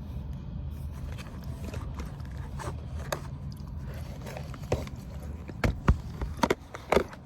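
Steady low rumble inside a car, with several sharp knocks and clicks over the second half, as objects are handled in the cabin.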